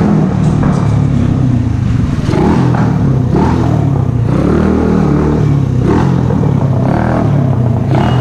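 Mash Café Racer 125cc motorcycle engine running through an aftermarket Megaton exhaust, its engine speed rising and falling several times.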